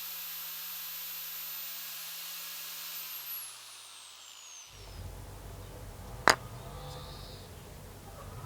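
A small electric power tool running steadily, then switched off and spinning down, its pitch falling over about a second and a half. A few seconds later comes one sharp click.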